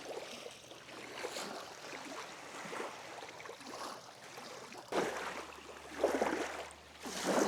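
Small waves lapping at the shore with wind, and a few louder surges from about five seconds in.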